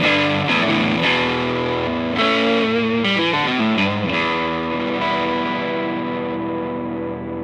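Squier Jazzmaster electric guitar played with distortion: a few struck chords, a quick descending run of notes about three seconds in, then a chord left to ring and slowly fade.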